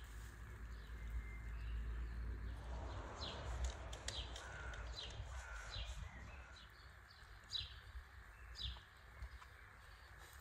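Small birds chirping: short, sharp calls that drop in pitch, repeated every second or so, over a low steady rumble.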